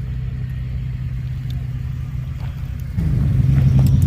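Car engine idling with a steady low hum, getting suddenly louder about three seconds in.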